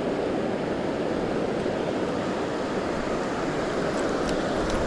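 Steady rushing of river water. A few faint light ticks near the end.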